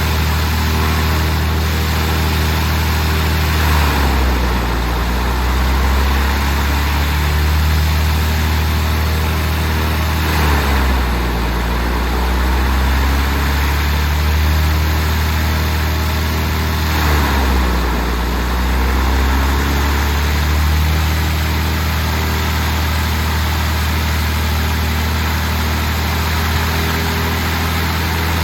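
Light aircraft's piston engine and propeller running steadily on the ground. Three times, about 4, 10 and 17 seconds in, the engine speed drops and then recovers: the drops of a magneto check, with the right mag dropping almost 400 RPM.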